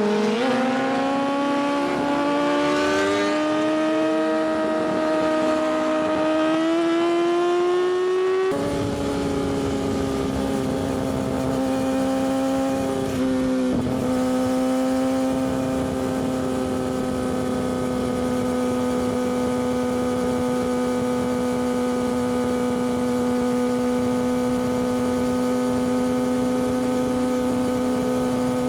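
Yamaha R6's inline-four engine through an Akrapovic exhaust, heard from onboard, pulling up through the revs for about eight seconds. A rushing noise then joins, and after a brief dip the engine holds a steady pitch at cruise.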